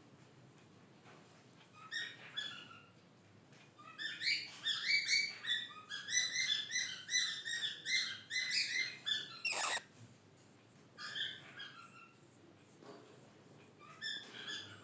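Pet parrot chirping in short bursts, with a long run of rapid chattering chirps in the middle and one sharp high call near the end of that run.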